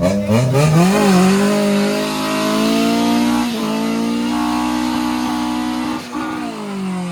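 Car engine revved up and held at high revs with a hiss of spinning tyres, as in a burnout; the revs drop back toward idle near the end.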